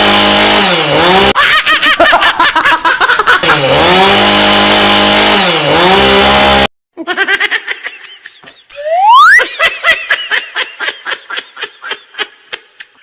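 Chainsaw engine revving hard, its pitch dipping and climbing back several times. It cuts off abruptly about halfway through. A single rising whistle and a run of rhythmic laughter that fades away follow.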